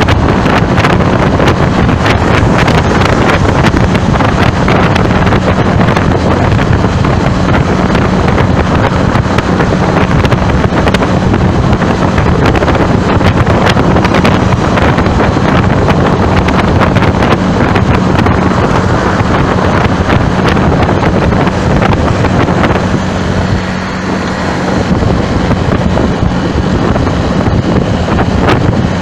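Loud wind noise rushing over the microphone, with the steady hum of a moving vehicle underneath. It eases briefly about three-quarters of the way through.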